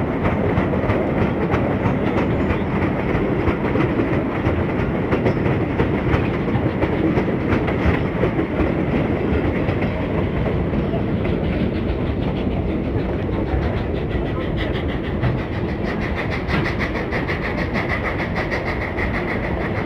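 Cumbres & Toltec three-foot narrow-gauge steam train rolling along, heard from an open car: a steady rumble of wheels on rails, with a quick regular clickety-clack growing plainer near the end.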